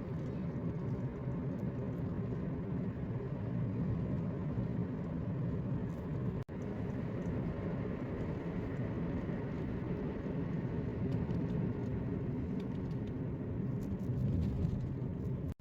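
Steady low rumble of a car on the road, heard from inside: tyre and engine noise while driving, with a brief dropout about six and a half seconds in.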